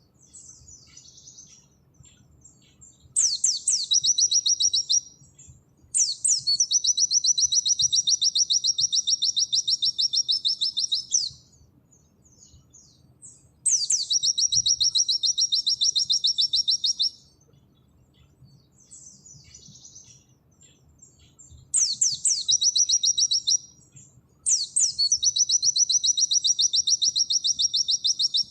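White-eye (pleci) singing its rapid 'nembak' song: long, fast, high-pitched trills lasting about two to five seconds each, every one opening with a quick downward sweep. Five such trills, with softer twittering in the pauses between them.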